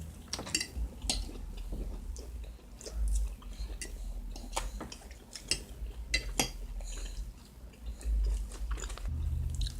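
Eating sounds: a fork clicking and tapping against a plate, with chewing and a few low thumps.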